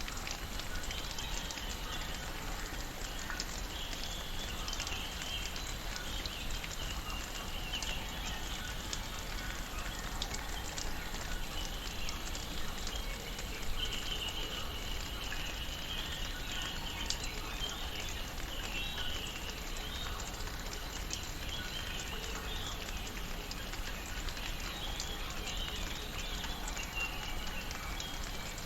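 Tropical rainforest ambience: gentle rain pattering steadily, with a dense chorus of high chirping bird calls running through it.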